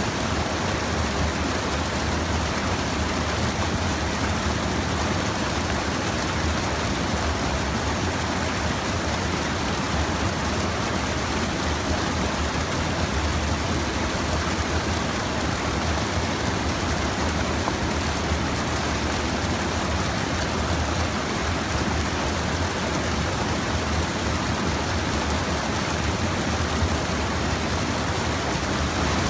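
Steady rush of a small river's water flowing at a check dam, an unbroken noise with a deep low rumble.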